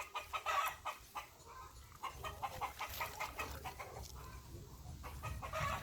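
Domestic hens clucking, a string of short clucks with a louder burst of calls near the end.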